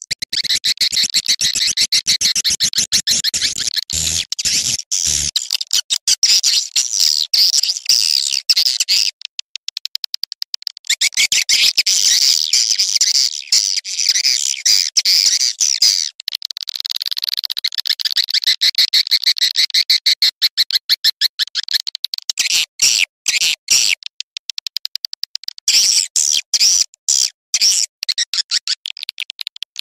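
Swiftlet lure call: a recording of swiftlets' rapid, dense chirping and twittering, played to attract the birds to a nesting house. It comes in long runs broken by brief pauses, thinning to spaced-out chirps near the end.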